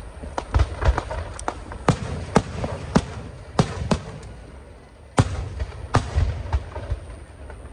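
Fireworks display going off: an irregular series of sharp bangs and cracks over a low rumble, getting louder again about five seconds in.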